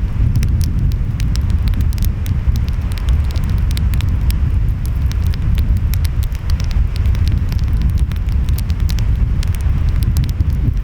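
Wood fire crackling, with frequent sharp pops and snaps, over a steady low rumble of surf and wind.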